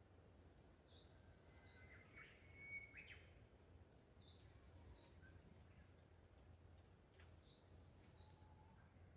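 Faint songbirds singing: one bird repeats the same short, high phrase about every three seconds, with other brief chirps and whistles between, over a steady low rumble.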